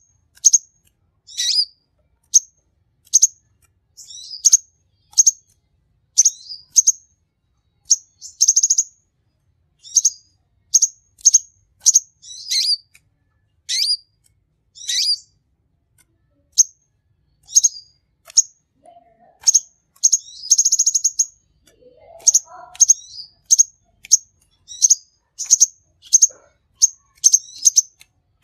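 A sunbird (kolibri konin) singing continuously: a rapid series of short, high chirps and twittering phrases, with a brief buzzing trill about two-thirds of the way through.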